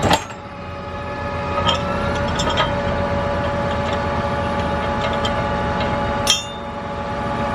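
Farm machinery engine running steadily, its pitch rising over the first couple of seconds, with a few light clinks and knocks, the sharpest near the end.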